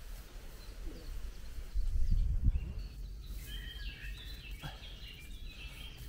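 A songbird singing a run of short whistled notes, starting about halfway through. Before it, about two seconds in, there is a brief, loud low rumble.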